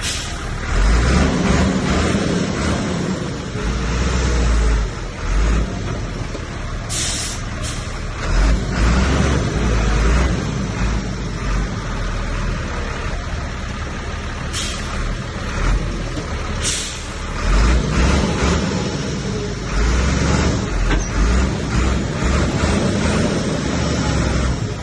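Heavy diesel engine of a Komatsu bulldozer working under load, its low rumble swelling and easing every few seconds as it pushes, with a few short hisses.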